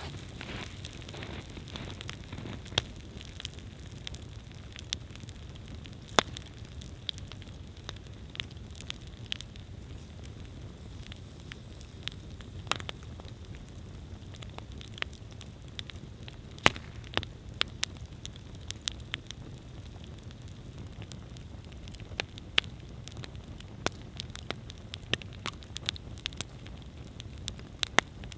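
Wood campfire burning steadily, with a low rumble from the flames and irregular sharp crackles and pops from the burning wood, some much louder than others.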